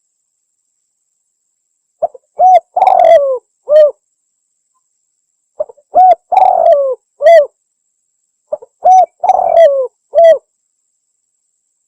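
Spotted dove (tekukur) cooing: three phrases about three seconds apart, starting about two seconds in. Each phrase is a few short coos around one longer, falling coo, with dead silence between phrases. It is a lure call used to draw in doves.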